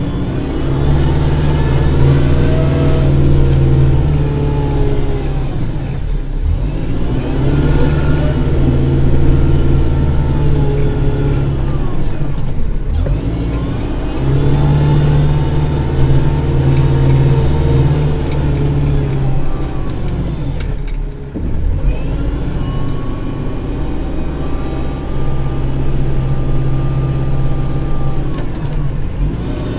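Kubota tractor's diesel engine running under changing load, its pitch dipping and recovering about every six to eight seconds as the machine works back and forth through snow.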